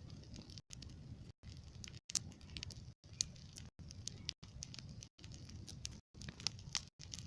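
Small campfire crackling, with scattered sharp pops over a low rustle. The sound drops out briefly and regularly, about every three quarters of a second.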